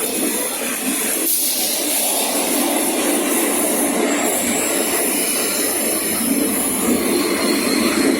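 East Rail Line electric train moving along a station platform: a steady rumbling rush of wheels and running gear, with a thin high whine joining about halfway through.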